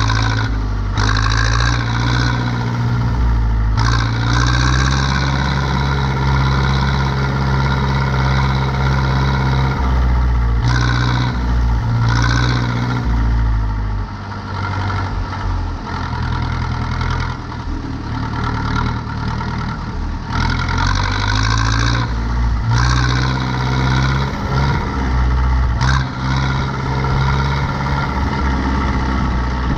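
Zetor 7245 tractor's four-cylinder diesel engine running under load while turning hay, its revs rising and dropping several times.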